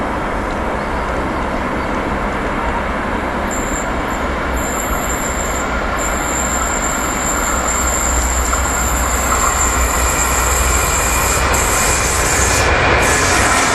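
Electric freight locomotive and its wagons rolling past on a curve, a steady low hum under the rumble of wheels on rail, growing louder as the wagons draw level. High-pitched wheel squeal on the curved track sets in a few seconds in and dies away near the end.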